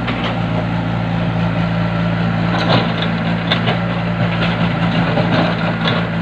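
An engine running steadily at idle, with a few sharp knocks a little before the middle.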